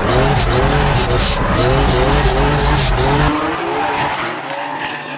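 Drift car engine revving in repeated rising pulls, with tyres squealing and skidding. About three seconds in, the loud engine sound drops away, leaving quieter tyre and car noise.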